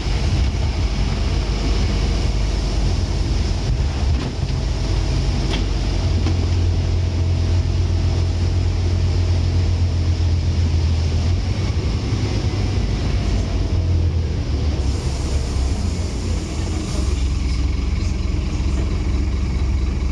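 Scania N230UD double-decker bus's diesel engine running with a steady low drone; the engine note grows stronger about six seconds in and drops back around twelve seconds.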